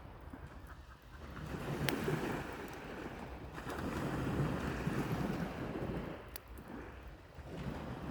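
Sea waves washing onto the shore in slow swells, with wind rumbling on the microphone. Two sharp pops from the campfire crackling, about two seconds in and again near the end.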